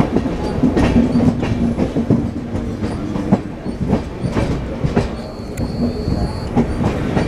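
Train running on its track: a steady rumble with irregular clacks and knocks from the wheels. A brief high whine comes about five seconds in.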